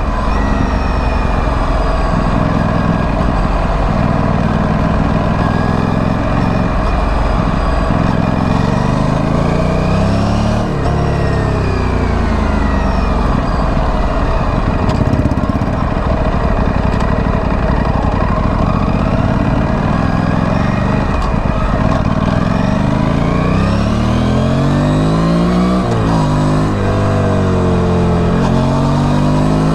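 Aprilia Tuono 457 parallel-twin engine through its stock exhaust, ridden on the road: the revs climb twice, around 8 and 22 seconds in, and fall back between, over a steady engine note.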